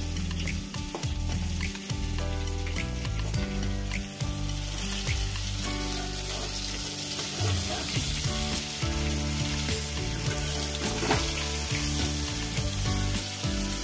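Eggplant slices sizzling in hot oil in a steel kadai, with the scrape and clack of a metal spatula as they are lifted and turned over. Background music plays underneath.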